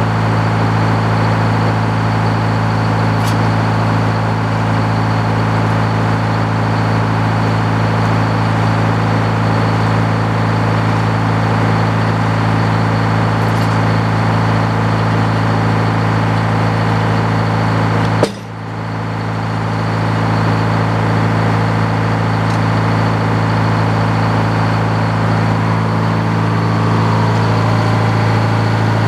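Engine powering an antique Frick sawmill, running steadily. About 18 seconds in there is one sharp knock, after which the sound drops briefly and recovers.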